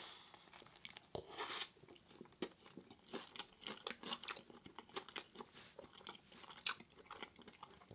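Close-miked eating of a vegan Beyond Burger: a bite about a second in, then chewing with many small, irregular crunches and wet mouth clicks.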